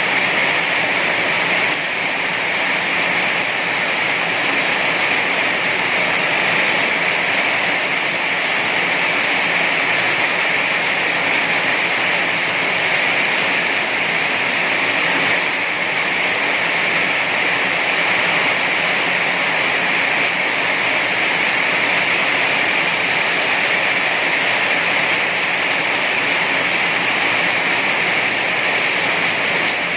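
Heavy rain falling steadily, an even hiss without a break or change.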